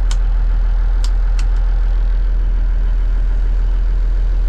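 The diesel engine of a 1989 Kenworth K100E cabover truck running steadily, with a few short clicks around a second in.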